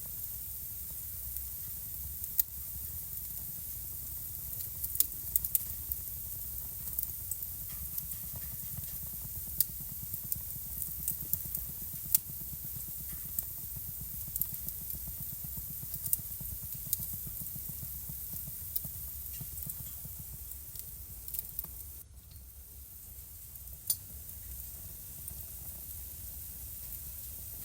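Wood fire crackling in a fireplace: scattered sharp pops and snaps over a steady low rumble and faint hiss, briefly quieter about four-fifths of the way through.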